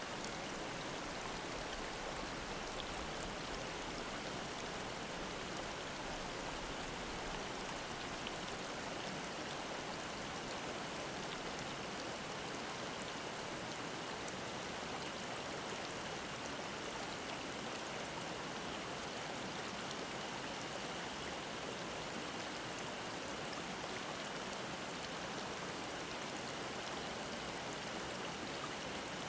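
Mountain stream babbling: a steady, even rush of flowing water, with the faint steady drone of cicadas behind it.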